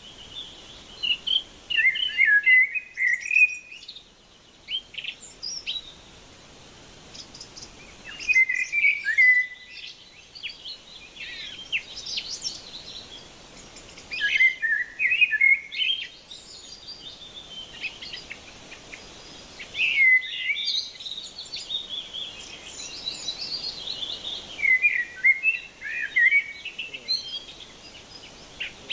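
A songbird singing: bouts of rapid, varied chirping phrases a few seconds long, repeated every several seconds.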